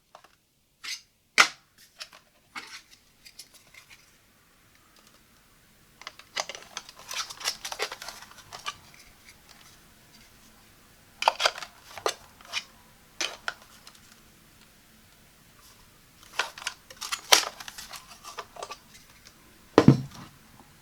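Hard plastic parts of a handheld cordless vacuum being handled after use: sharp single clicks at first, then several clusters of rustling and scraping clicks, and a heavier thump near the end.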